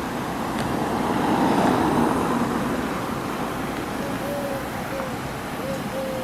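A motor vehicle passing, its noise swelling to a peak about two seconds in and then easing, over outdoor background sound with faint distant voices.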